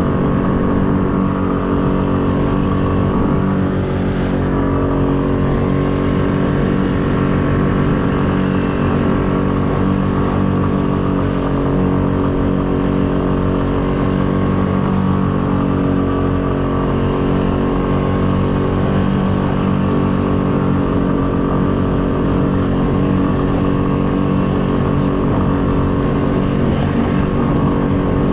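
A small fishing boat's motor running steadily at an unchanging speed.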